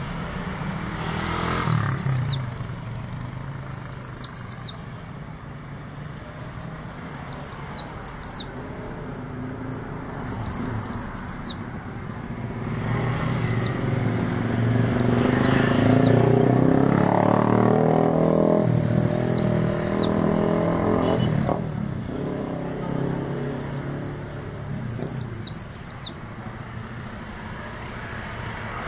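White-eye (pleci) singing in short bursts of rapid, high-pitched twittering, repeated about a dozen times. Through the middle a vehicle engine swells up and fades away beneath the song, the loudest sound.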